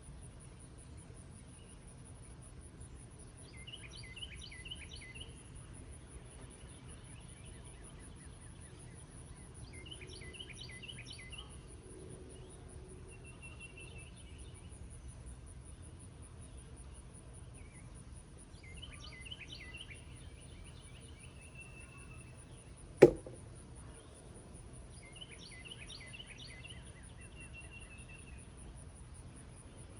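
A songbird repeats the same short song, a quick run of notes ending in a trill, about every seven seconds, over a high, steady, pulsing insect call. One sharp knock, a little past two-thirds of the way through, is the loudest sound.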